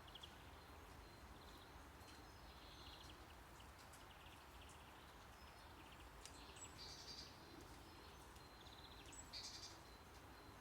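Faint nature-sound ambience laid over steady low brown noise. Short, high, rapidly pulsed chirps recur every second or so.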